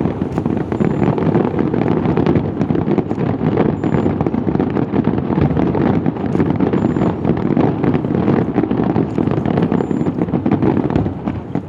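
Fireworks barrage going off in a dense, continuous rumble and crackle that starts suddenly and holds steady, easing off near the end.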